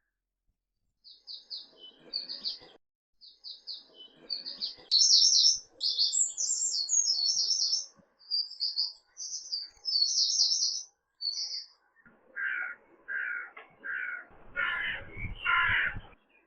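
Birds singing: quick runs of high chirps and trills, then five lower calls about a second apart near the end.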